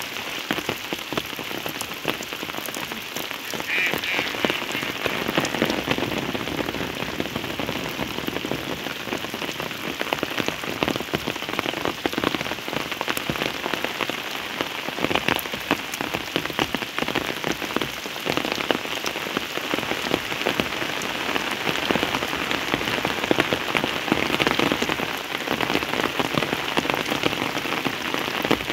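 Steady heavy rain falling, a dense patter of drops hitting surfaces. About four seconds in, a short higher-pitched sound rises briefly above the rain.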